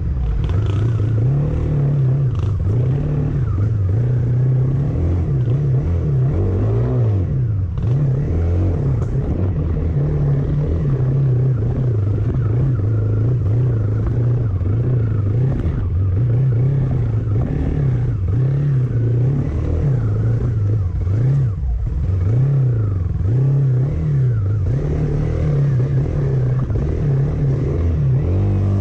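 A motor vehicle's engine running steadily, its pitch rising and falling again and again with the throttle.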